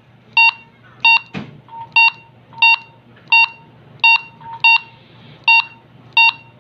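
Key beeps from a handheld VHF/UHF two-way radio as its buttons are pressed to scroll through a menu setting. There are short electronic beeps about every 0.7 s, nine in all, with a single knock about a second in.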